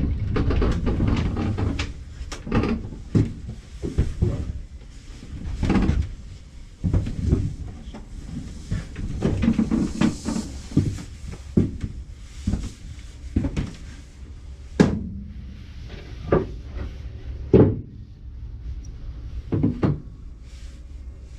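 Cut pieces of a cedar fence picket being handled and set down on a workbench: a run of irregular wooden knocks and clatters, with rustling handling noise between them.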